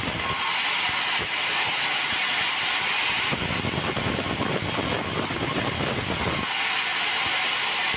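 Sawmill bandsaw running with a steady mechanical noise and hiss.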